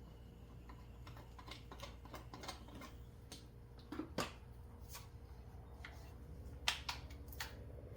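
Scattered light clicks and knocks of pressure washer parts being handled and stowed, the sharpest about halfway through and again near the end, over a faint steady low hum.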